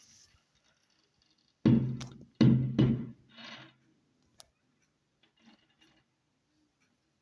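Two loud firework bangs a little under a second apart, each with a short rumbling decay, then a fainter third burst and a sharp crack.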